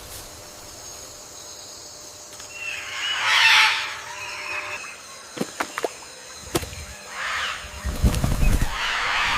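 Harsh, rasping bird calls: a loud drawn-out squawk about three seconds in, then shorter calls near the end. A few sharp clicks come in the middle, and low thumps come near the end.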